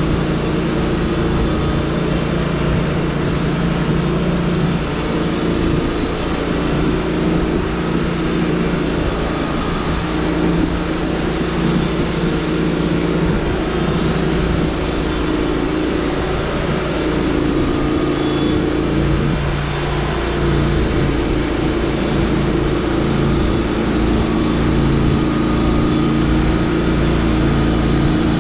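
An engine running steadily and loudly, its pitch shifting briefly about two-thirds of the way through.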